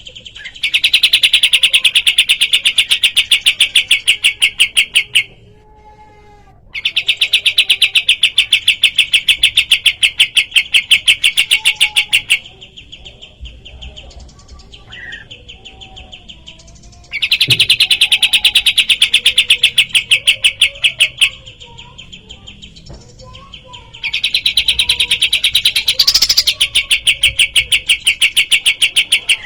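Kapas tembak bulbul song: four long runs of fast, evenly repeated high notes, each lasting four to five seconds. Quieter, scattered chirps fill the pauses between the runs.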